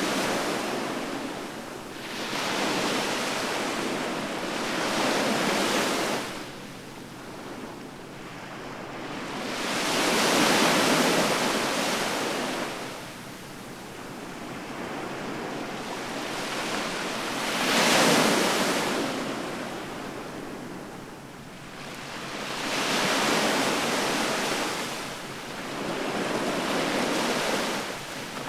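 Ocean waves breaking on the shore, the surf swelling and falling back in a new surge every four to eight seconds. The loudest and sharpest break comes about two-thirds of the way through.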